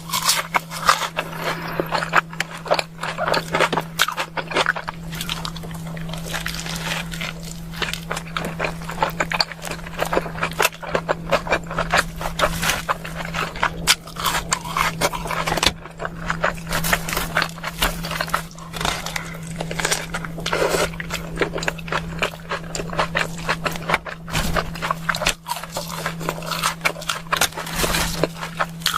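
Close-miked eating of a burger and fries: repeated bites and crunchy, moist chewing, over a steady low hum.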